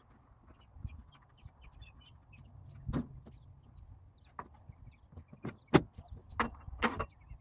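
A series of sharp clicks and knocks over a low rumble. They are sparse at first, then louder and several in quick succession through the second half.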